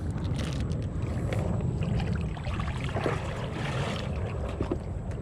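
Steady low rumble of wind on the microphone and water around a kayak, with a few light knocks about three seconds in and again near the end.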